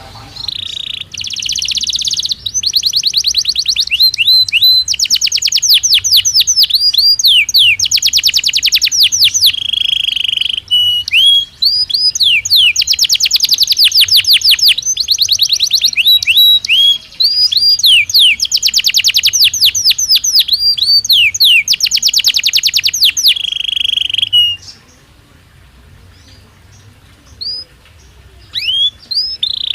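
Belgian canary singing loudly in fast rolling trills and rapid sweeping notes, phrase after phrase. It stops about 24 seconds in, gives a few single notes, then starts trilling again at the very end.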